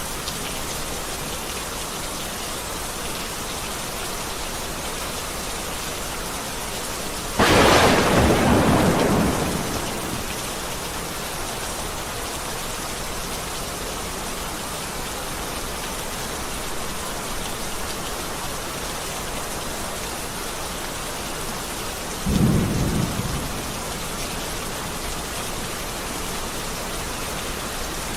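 Steady heavy rain with two claps of thunder. The first is a sharp, loud crack about seven seconds in that rumbles away over a couple of seconds; the second, about fifteen seconds later, is a shorter, lower rumble.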